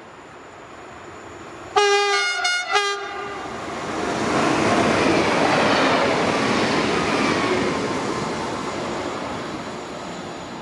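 Train horn sounding twice, a long blast then a short one, followed by the train passing: the rail noise swells to a peak a few seconds later and slowly fades away.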